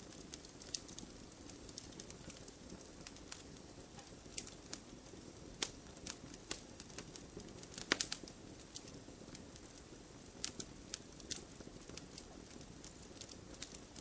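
Wood fire crackling: irregular sharp pops and snaps over a low steady hiss of burning, with the loudest snap about eight seconds in.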